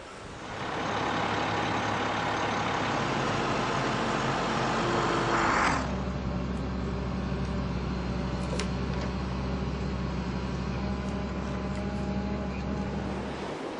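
A large truck's engine: a loud rushing noise for about five seconds that cuts off suddenly, then a steady low engine hum.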